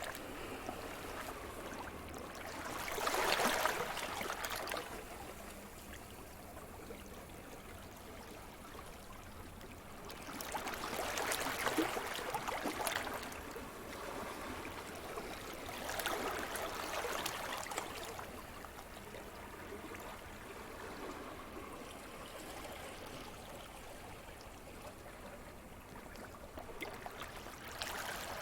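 Sea surf: waves break and wash up the shore in slow swells several seconds apart, each rising and fading over a couple of seconds, with a steady hiss of water between them.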